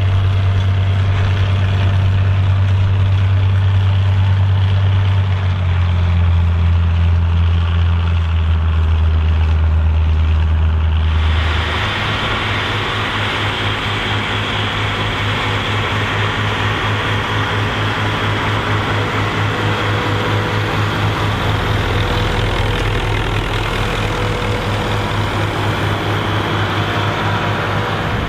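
Massey Ferguson 2680 tractor's diesel engine running steadily while pulling a cultivator. After about eleven seconds the deep engine note gives way to a brighter, noisier sound that carries on steadily.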